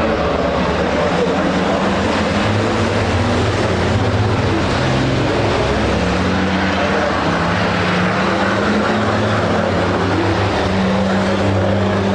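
Racing trucks' big diesel engines running in a steady, loud drone, their pitch shifting now and then.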